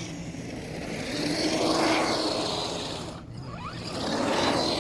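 Traxxas Rustler 4x4 RC truck's brushed electric motor and drivetrain whining as it drives, swelling loudest about two seconds in, dipping, then rising again near the end.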